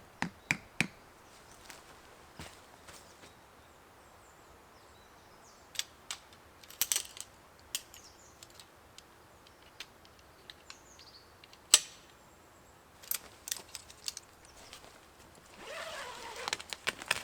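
Scattered sharp clicks and snaps at irregular intervals, the loudest about two-thirds of the way through, with a rustling stretch near the end.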